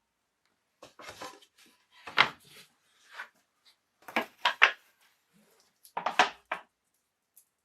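A handful of irregular knocks and clatters of objects being picked up and set down on a hard, partly wooden surface, with short pauses between them.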